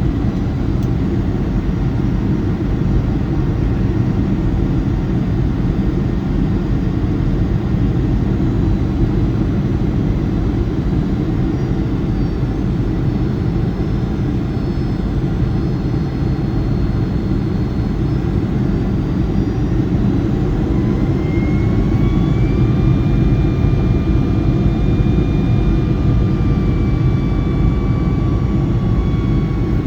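Boeing 757-200's turbofan engines heard from inside the cabin on approach: a steady deep rumble with a thin engine whine over it. About two-thirds of the way in, the whine rises in pitch and the sound grows a little louder as the engines spool up to more thrust.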